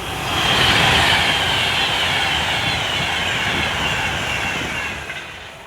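Class 390 Pendolino electric train passing at speed: a rush of wheel and air noise, loudest about a second in, with a whine that falls slowly in pitch as the train goes by, then dies away near the end.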